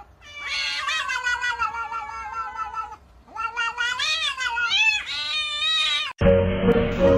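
A cat yowling. It gives one long drawn-out yowl, and after a short break a second yowl that wavers up and down in pitch.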